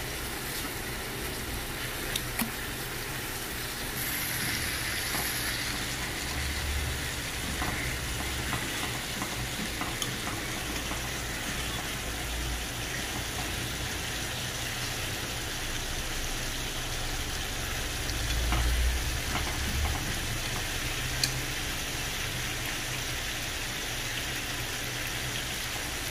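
Chicken pieces sizzling steadily as they fry, with a few light clicks of a utensil as the pieces are turned.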